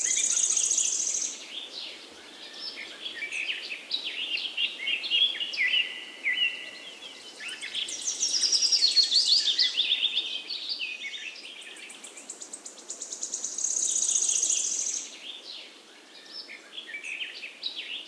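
Songbirds singing: a busy mix of short chirps and whistled notes, with a high, rapid trill that comes back three times, several seconds apart.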